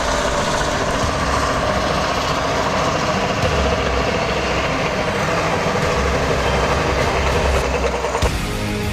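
Off-road trial truck's engine running under load, with a low rumble that swells and eases. It cuts off suddenly near the end and gives way to music.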